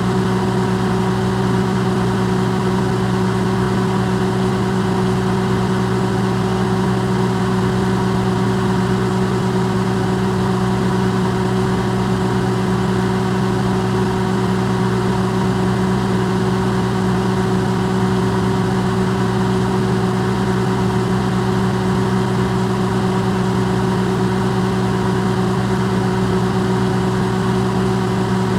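Electrolux microwave oven running, its sound recorded amplified: a steady, unchanging electrical hum with several fixed pitches over an even hiss.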